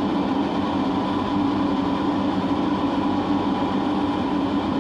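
A ship's engine running steadily under way: an even mechanical drone with a constant hum.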